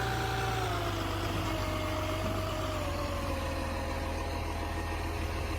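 Garbage truck engine running with a steady low rumble, under a whining tone that drops slightly in pitch about a second in and then holds steady.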